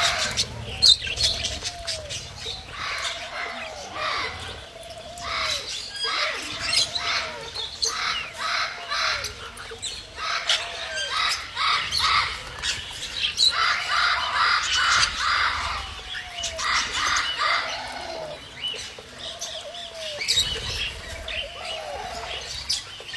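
A group of birds calling together: busy chirping and chattering throughout, with a short, arching lower call repeated about once a second.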